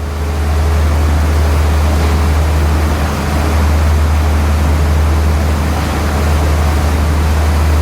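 Passenger train running at speed: a loud, steady rushing roar over a constant low drone.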